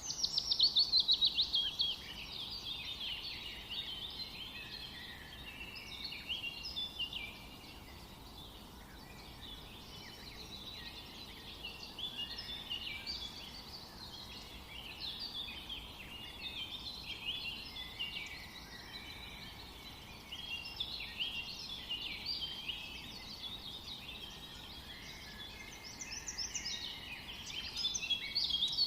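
Songbirds chirping and singing, a dense chorus of overlapping short high notes. The loudest is a rapid run of falling notes in the first couple of seconds, with another louder spell near the end.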